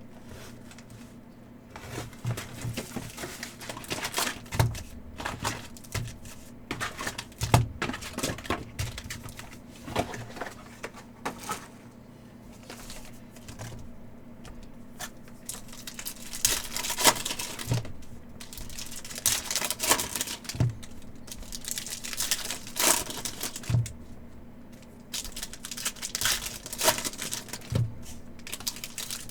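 Upper Deck hockey card packs being torn open and their foil wrappers crinkled, with cards handled in between. Soft low thumps every few seconds, and a steady low hum underneath.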